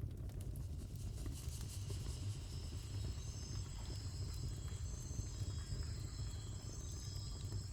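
Wood fire burning in a fireplace, crackling with many small irregular pops over a low steady rumble. From about three seconds in, faint high chirping tones come and go.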